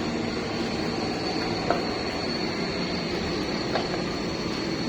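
Heavy truck running with a steady rumble and a thin, constant high-pitched whine, with two brief knocks, one about two seconds in and one near the end.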